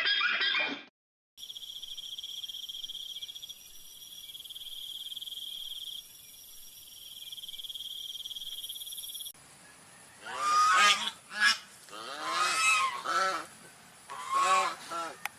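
A steady, high-pitched buzzing trill that stops abruptly, then geese honking in three or four loud bouts of calls in the second half.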